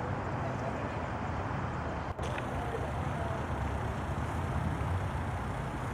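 Steady low outdoor background rumble, with a brief dropout about two seconds in.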